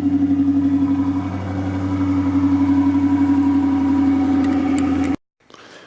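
Dodge Charger R/T's 5.7-litre Hemi V8 idling through an exhaust with the mid mufflers deleted, a steady, pulsing burble. It stops abruptly about five seconds in.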